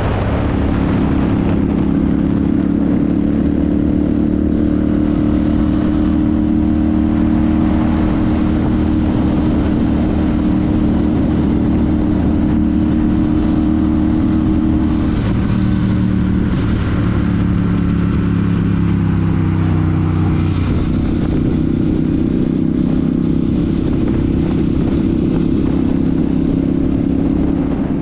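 Royal Enfield Super Meteor 650's 648 cc parallel-twin engine and exhaust running steadily under way. The engine note drops in pitch about halfway through and rises again a few seconds later.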